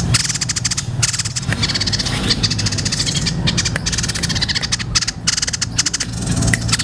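White-breasted babbler (tepus dada putih) singing: bouts of fast, dry, high rattling trills, one after another with brief gaps, over a low steady hum.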